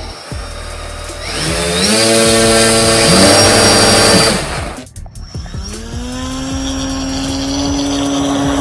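Propeller-driven electric motors of a large RC airplane running up: the pitch rises about a second in and holds steady, the throttle is cut around four and a half seconds in, then they spool up again to a steady hum.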